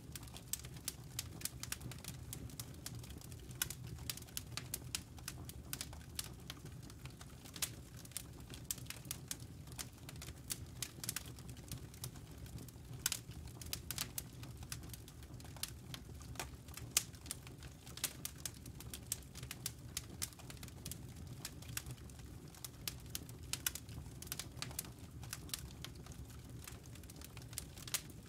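Wood fire burning in a fireplace: logs crackling with irregular sharp pops and snaps, several a second, over a steady low rumble of the flames.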